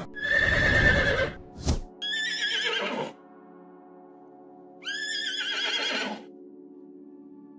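Horse whinnying: three separate calls, one at the start, another about two seconds in and a third about five seconds in, with a sharp click between the first two. Soft background music with steady held notes runs underneath.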